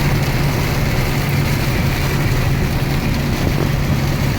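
Inside a truck's cab in a heavy downpour: a steady noise of rain and wet road over the engine's low, even hum.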